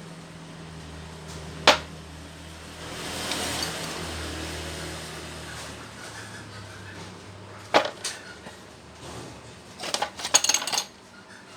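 Metal jackhammer parts being handled on a workbench: a sharp clink, a stretch of hiss under a low hum, then a couple of knocks and a quick clatter of metal near the end.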